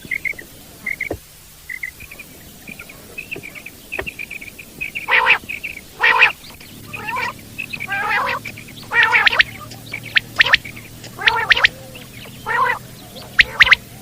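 Common quail calling. Faint, quick high chirps come first; from about five seconds in, loud harsh calls repeat roughly once a second.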